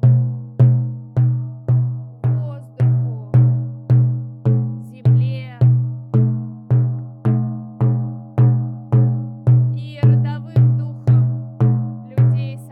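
Frame drum (buben) beaten in a steady, even rhythm, just under two strokes a second, each stroke a deep booming tone that rings out and fades before the next.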